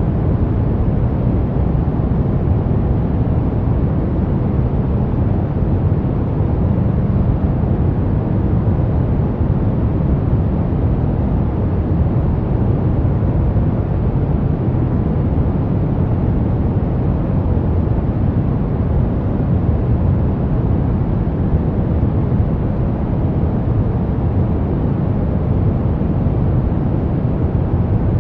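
Brown noise: a steady, deep rumbling hiss with most of its weight in the bass, unchanging throughout.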